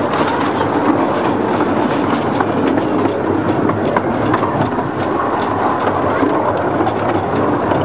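15-inch-gauge miniature railway train running along the track: a steady rumble and hiss with many short clicks of the wheels on the rails.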